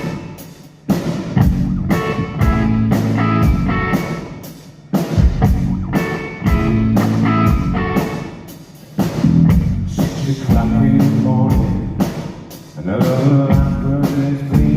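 Rock band playing an instrumental passage: a steady drum beat under guitar chords that swell and fade in phrases of about four seconds.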